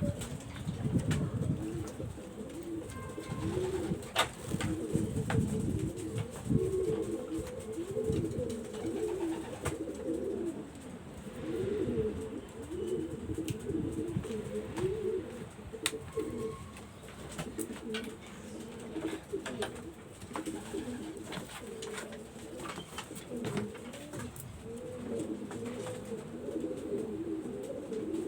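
Domestic pigeons cooing, several birds overlapping in a continuous run of low, wavering coos, with a few sharp clicks.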